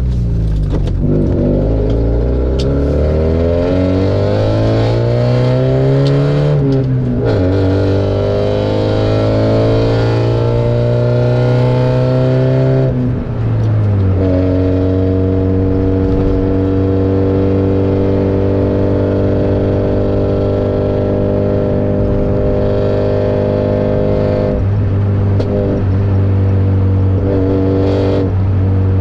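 Opel Frontera engine through a straight-piped exhaust, driven hard. The engine note climbs for the first several seconds, drops sharply about seven seconds in and again around thirteen seconds, then holds a steady drone before changing pitch again near the end.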